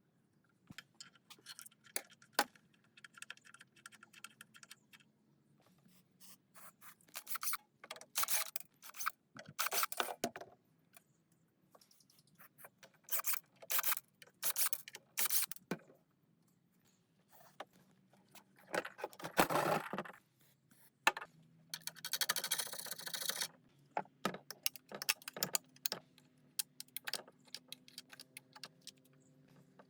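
Metal parts being handled and worked by hand: irregular clicks, clinks and knocks, with a few longer scraping passes, the longest about two thirds of the way through.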